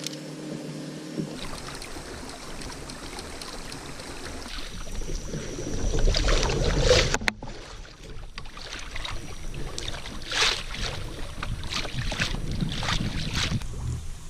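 Water lapping and splashing around a fishing kayak, with knocks and ticks of gear being handled on the hull. A loud low rumble of wind on the microphone comes about five seconds in and lasts about two seconds.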